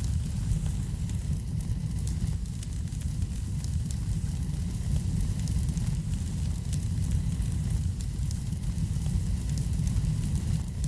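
Wood fire burning in a fireplace: a steady low rumble of flame with many small, sharp crackles and pops scattered throughout.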